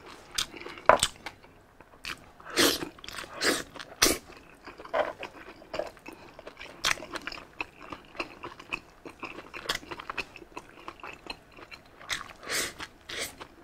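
A person chewing and biting into meat and rice close to the microphone, with irregular wet mouth clicks and crunches, several close together at times.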